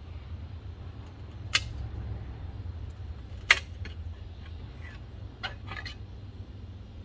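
Two sharp clicks and a few fainter ticks of hand tools working against a steel rail, over a steady low hum.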